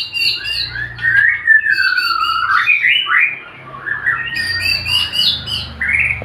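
Male white-rumped shama singing a varied song: long whistled glides alternate with bursts of quick chattering notes, with a short lull about halfway through.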